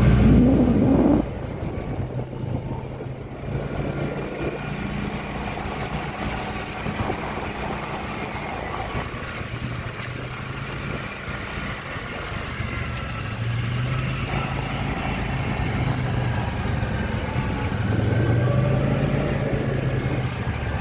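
Dirt bike engine idling and revving lightly. It is loudest in the first second, then drops and swells up again a couple of times later.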